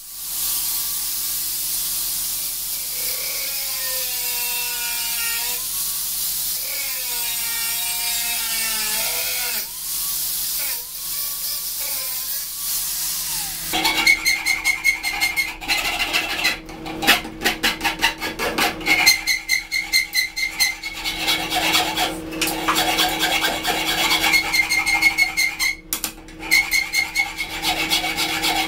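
A steady hiss with a wavering whine for about the first half. Then a hand file rasps back and forth on the steel knife blade in quick, regular strokes, each with a faint metallic ring.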